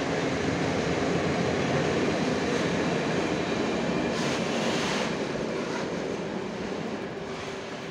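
A freight train of six-axle open coal wagons rolling past on the rails in a steady rumble, with a brief higher hiss about four seconds in; the sound dies away over the last couple of seconds as the train moves off.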